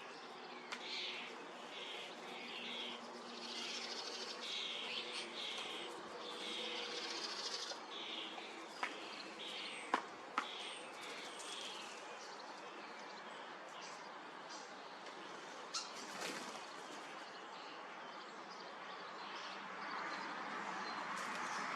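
Birds calling: a busy run of short, raspy chirps for the first eight seconds or so, thinning out after that, with a few sharp clicks in the middle.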